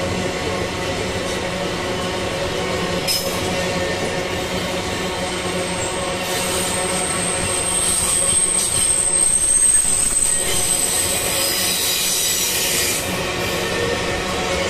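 Freight train rolling past with a steady rumble of wagons on the rails; about five seconds in a thin high-pitched wheel squeal sets in and dies away about eleven seconds in.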